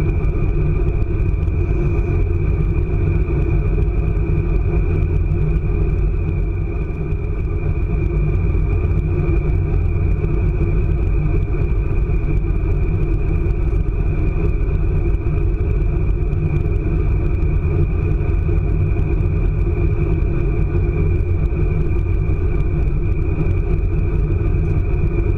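ICE high-speed train running at speed: a steady low rumble with a constant high whine over it.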